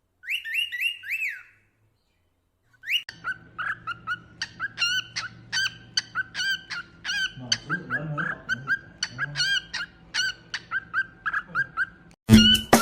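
Cockatiel chirping: a short run of four whistled chirps, a pause, then a long series of quick, evenly repeated chirps over a faint low hum. Louder music cuts in near the end.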